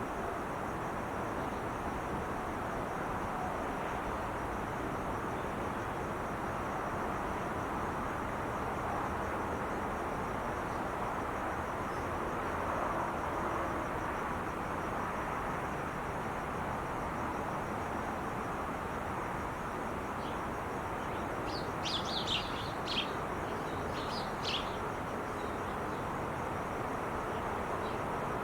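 Steady wash of traffic noise from the 5 freeway, with a short run of high bird chirps about four-fifths of the way through.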